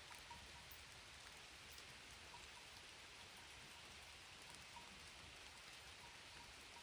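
Light rain falling on plants, a faint, steady hiss with scattered drop ticks.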